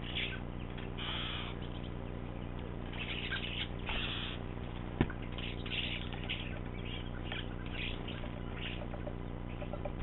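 Birds at a feeder: short scratchy bird sounds and wing flutters come and go, with one sharp knock about five seconds in, over a steady low hum.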